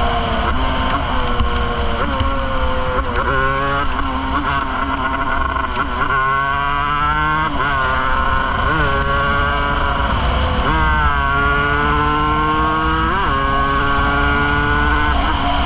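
Yamaha DT200's two-stroke single-cylinder engine under way, its pitch climbing as it pulls and then dropping sharply about half a dozen times as the rider rolls off and shifts gears.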